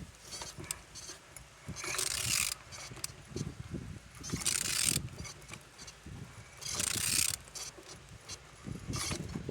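Vauxhall/Opel Z16XER 1.6-litre four-cylinder petrol engine being turned over by hand. It gives a rasping mechanical sound in four strokes, about two seconds apart, with light clicks in between. The engine turns freely and is not seized.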